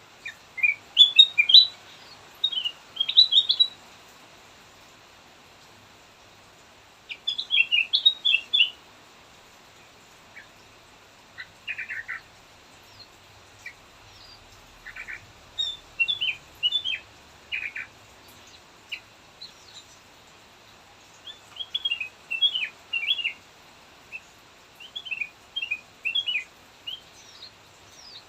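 Kutilang emas, a bulbul, singing phrases of quick, chirpy notes, with pauses of a few seconds between bursts.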